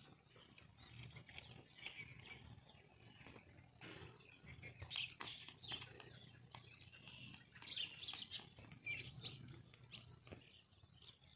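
Faint outdoor ambience with scattered, irregular bird chirps.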